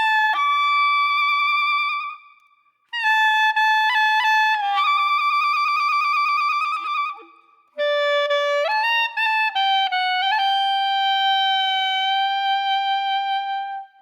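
Solo wind instrument playing a slow melody of long held notes with vibrato, in three phrases separated by two short pauses.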